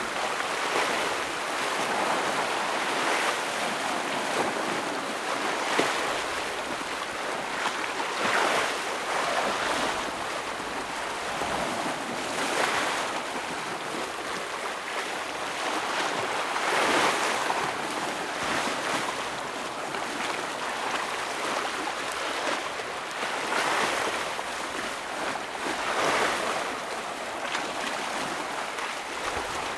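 Ocean waves breaking against shoreline rocks: a continuous wash of surf that swells with each breaking wave every few seconds.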